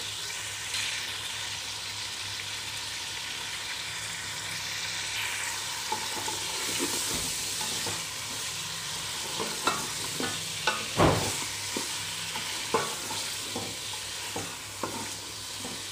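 Chicken pieces and onions sizzling in hot oil in a metal pot, stirred with a wooden spatula that scrapes and knocks against the pot. The knocks come in a cluster in the second half, the loudest about eleven seconds in. The raw chicken is being seared until its colour changes.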